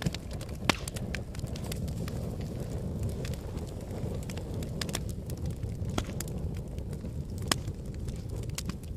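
Wood fire burning in a fireplace: a steady low rumble of flames with frequent crackles and pops, two louder pops under a second in and near the end.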